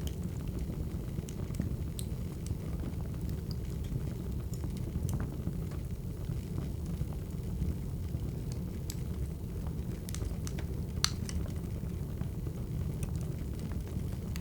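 Wood fire crackling: scattered pops and snaps of burning firewood over a steady low rumble, with one louder crack about eleven seconds in.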